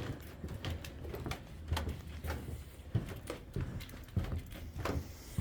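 Rustling and scraping of a glove being tugged onto a hand, with irregular soft knocks and thumps of the camera being handled.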